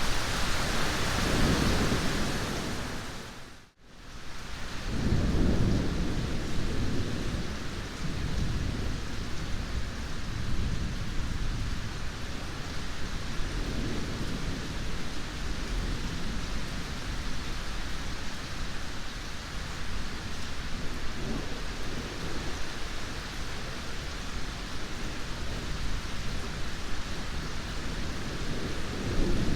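Steady heavy rain with rolling thunder rumbling in repeated low swells. The sound briefly fades to near silence about four seconds in, then comes back with a swell of thunder.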